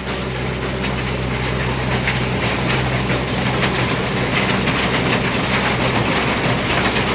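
Diesel engine of a JCB backhoe loader running steadily, with metallic rattling and clanking over it.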